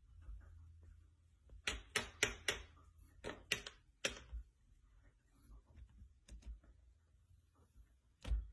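A quick run of sharp taps or knocks, about eight in under three seconds, then a few scattered fainter ones and a louder one near the end.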